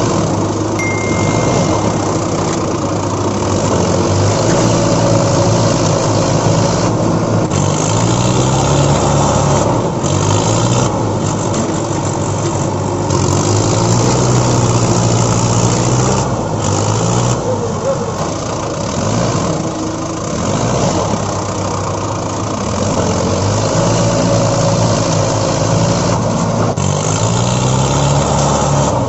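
A vehicle engine running throughout, its pitch rising and falling several times as if revving and easing off.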